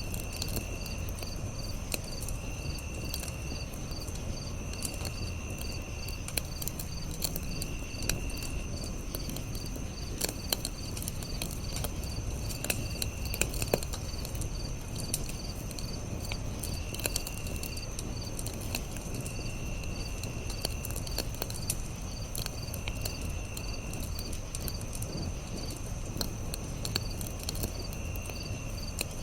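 Campfire crackling with scattered sharp pops, one of the loudest about two-thirds of the way through, under a constant chorus of insects chirping. The chorus has a steady high ring, an evenly pulsing call, and lower trills about a second long that come and go every few seconds.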